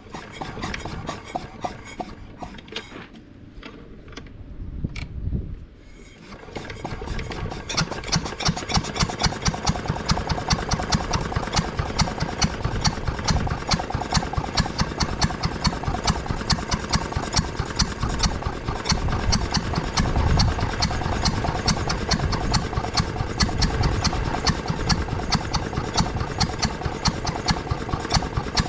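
Ruston & Hornsby 2PS petrol-engined air compressor starting: uneven rubbing and knocking for the first few seconds, then about six seconds in the engine catches and runs with a steady, rapid firing beat.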